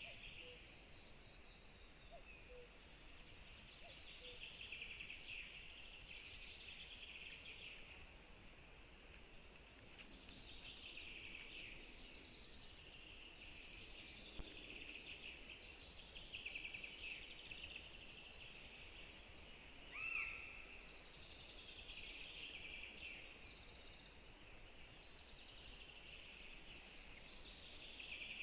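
Faint birdsong from several small birds singing at once, overlapping trills and chirps throughout, with one louder short call sliding down in pitch about two-thirds of the way through.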